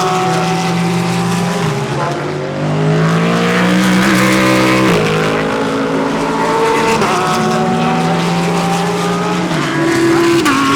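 Several GT3 race cars passing close by, engines overlapping. Their pitch climbs and drops abruptly at each upshift, about three times.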